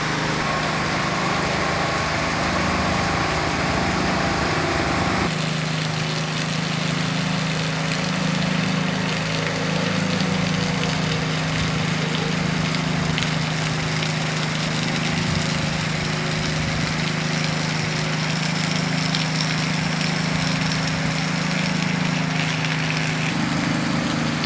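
Heavy rain falling steadily as an even hiss, over a steady low hum of a running engine or motor. The sound changes abruptly about five seconds in.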